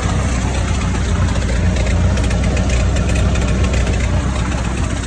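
Ford 8N tractor's four-cylinder gasoline engine running steadily with a low, even rumble.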